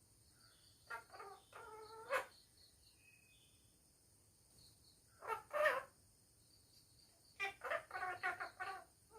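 Pet parrot calling and chattering in three short bouts: a pair of calls about a second in, a louder call around five seconds, and a quick string of short notes near the end.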